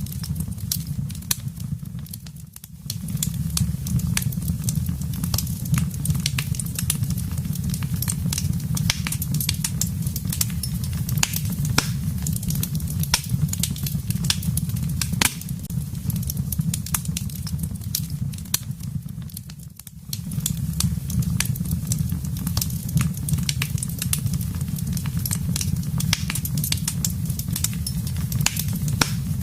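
Wood fire in a fireplace crackling: a constant scatter of sharp pops and snaps over a low, steady rumble of the flames. The sound dips briefly twice, about two and a half seconds in and just before twenty seconds in.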